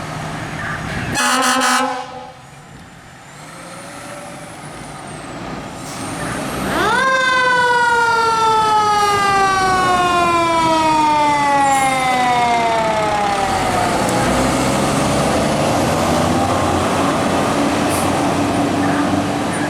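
Fire truck air horn gives one short blast about a second in. About seven seconds in, a mechanical siren winds up fast, then coasts down slowly over about seven seconds. Loud truck noise follows as the apparatus passes.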